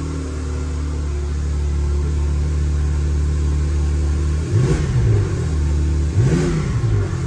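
Porsche 911 (991) Targa 4S's twin-turbo flat-six idling steadily just after start-up, heard from the driver's seat, with two short throttle blips, one about four and a half seconds in and another about six seconds in.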